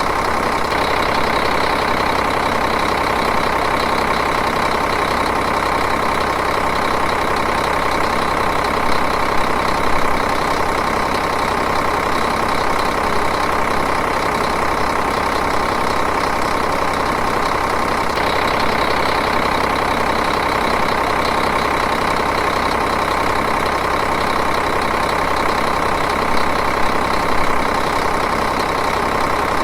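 Diesel engine idling steadily, with an even clatter.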